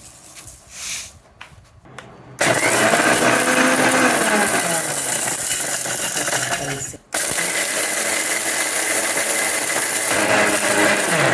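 The 600 W motor of a Bosch TrueMixx Bold MGM4334BIN mixer grinder, fitted with its pounding blade, dry-grinding red chilies, hing and salt. It starts about two seconds in and runs loudly, stops for a moment and starts again about seven seconds in, then spins down with a falling whine at the end.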